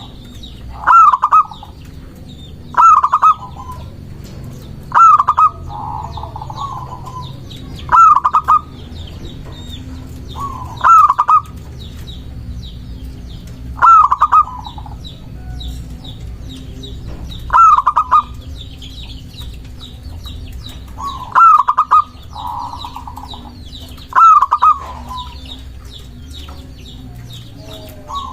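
Local zebra dove (perkutut) calling: nine short bursts of rapid coos, each about half a second long, repeated every two to four seconds. Faint high chirping of small birds runs underneath.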